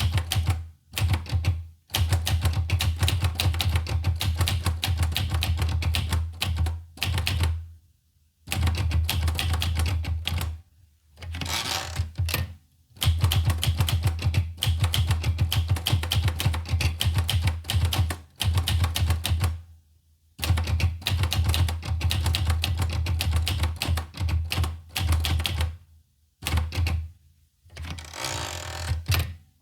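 Olivetti Lettera 25 manual portable typewriter being typed on: runs of rapid key strikes broken by short pauses, with a brief rasping slide twice.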